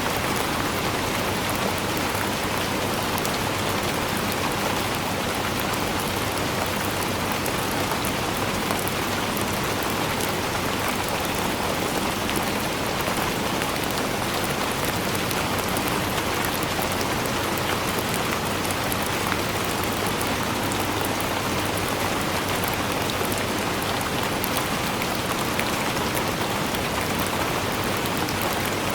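Steady, dense rain falling on a surface, with fine individual drop patter and no thunder.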